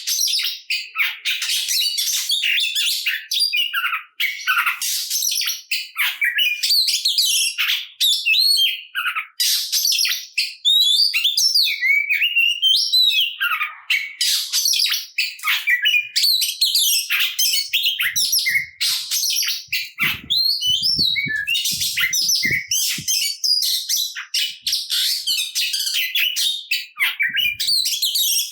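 Oriental magpie-robin singing vigorously in a fast, unbroken stream of varied whistles, chirps and harsh notes, full of mimicked phrases.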